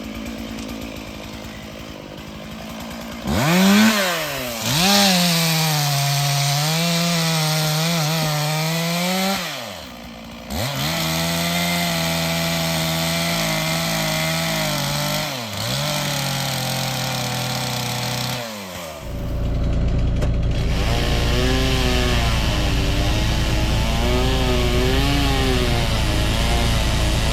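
Two-stroke Stihl chainsaw revved to full throttle in three long bursts, its pitch sagging and wavering under load as it cuts wood, dropping back briefly between bursts. In the last several seconds a steady low rumble takes over.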